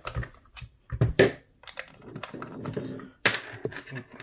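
Small hard plastic parts clicking and knocking together in irregular taps as an air compressor's nozzle attachments are handled, with a short rustle in between.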